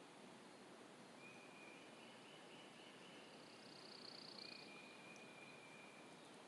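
Near silence: faint outdoor ambience with faint, steady high-pitched animal calls, including a brief high buzz about four seconds in.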